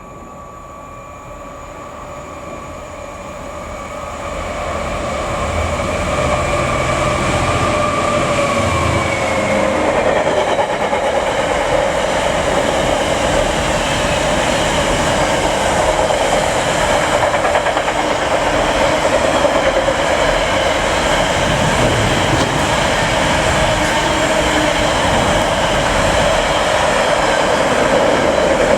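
A train approaching and then passing close by, building over the first five seconds to a steady, loud rumble of wheels on rail. A thin whine in it drops slightly in pitch about nine seconds in.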